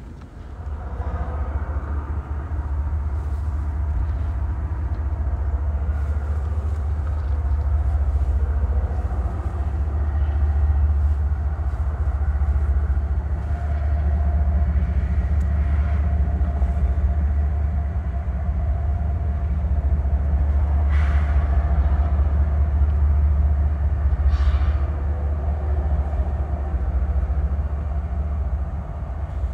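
Freight train rolling past: a steady low rumble from the diesel locomotives and cars, with a faint thin whine through the middle and two short sharp clanks about two-thirds of the way in.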